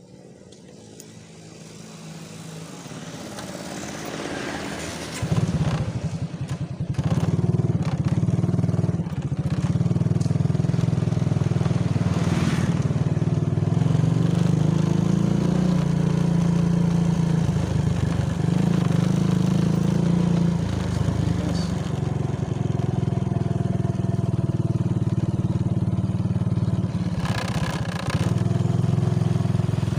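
A motor vehicle's engine running steadily, growing louder over the first five seconds and then holding.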